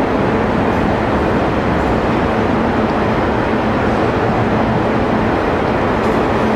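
Taiwan Railways Chu-Kuang express passenger train running steadily, heard from its rear parlor car: an even rumble of wheels on rail with a low steady hum underneath.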